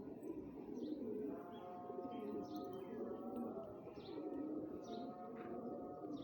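A group of pigeons cooing together in a dense, overlapping murmur, with short high chirps from other birds about once a second.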